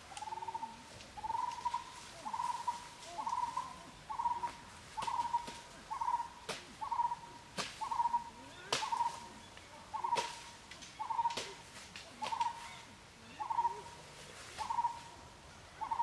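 A bird repeating one short hooting note at a steady pace of a little more than one a second. Each note is about the same pitch and shape. A few sharp crackles of dry leaf litter underfoot come through between the calls.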